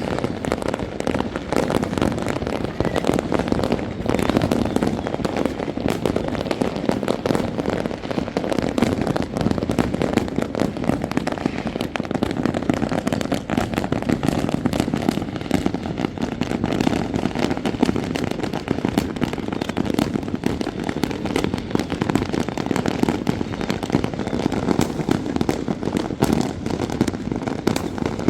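Many fireworks going off at once: a dense, unbroken crackle of overlapping bangs that does not pause.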